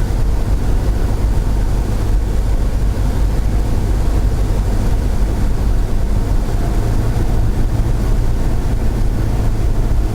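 Cessna 172's piston engine and propeller running with a steady, unchanging drone in flight.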